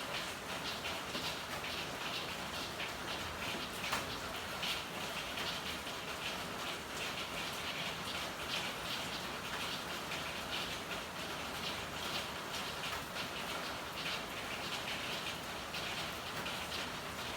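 Steady rain with a dense, irregular pattering of drops, and one sharper tap about four seconds in.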